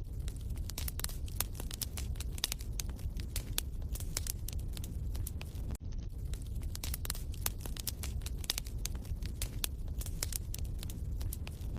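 Wood fire crackling in a fireplace: a steady run of sharp pops and snaps over a low rumble, with a brief dropout about six seconds in.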